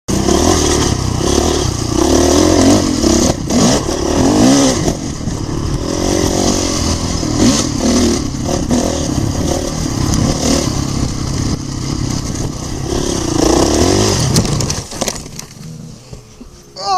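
Dirt bike engine revving up and down while riding, its pitch rising and falling again and again. The sound drops away sharply about two and a half seconds before the end.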